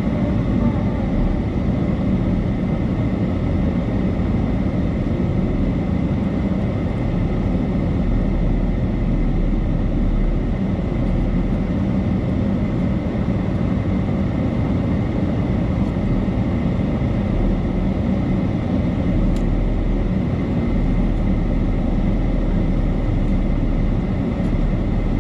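A truck driving, its engine running and its tyres rolling with a steady rumble.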